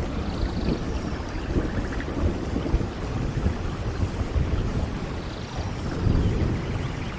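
Rainforest thunderstorm: steady heavy rain with a low rumble of thunder underneath, swelling about six seconds in.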